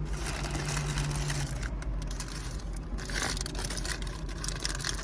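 Crinkling and crunching noises of food and its wrapping being handled and eaten, with many small clicks. A steady low hum runs under it and stops about a second and a half in.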